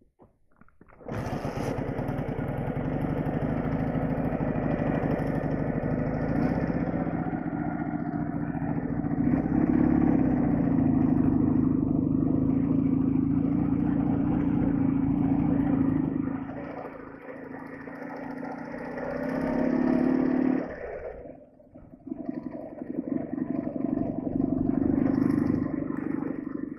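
Soviet flat-twin motorcycle engine pulling away and riding, starting about a second in. It eases off about two-thirds of the way through, revs up again, drops away briefly, then picks up once more near the end.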